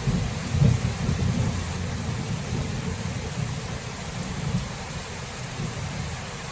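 Thunder rumbling over steady rain: the rumble swells about half a second in, then slowly dies away under the hiss of the rain.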